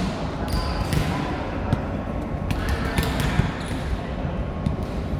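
Repeated ball thuds and bounces on a hard indoor court, mixed with short, high shoe squeaks and the echo of a large hall.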